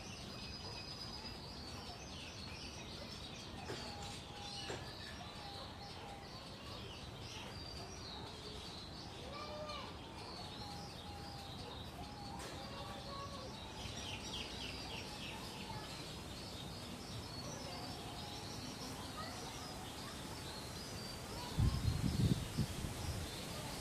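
Many small birds chirping and calling, with some lower whistled notes among them. Near the end a brief, deep rumbling burst is the loudest sound.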